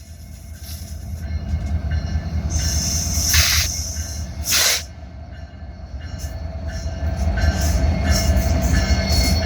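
BNSF train approaching and passing close by: a low rumble builds, with two short hissing bursts about three and four and a half seconds in. From about seven seconds quick repeated clicks ride on the louder rumble, typical of wheels crossing rail joints.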